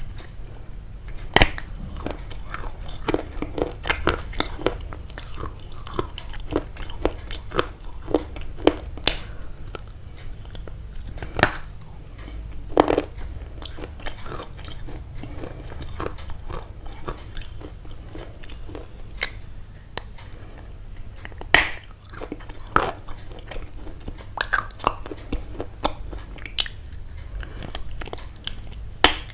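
Crunchy biting and chewing close to the microphone: irregular sharp crunches, several a second at times, over a steady low hum.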